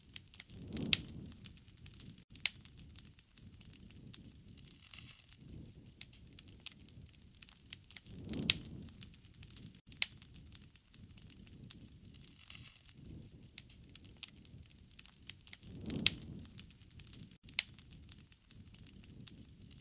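Wood bonfire crackling, with frequent sharp pops and snaps and three soft, low rushes of flame spread through it.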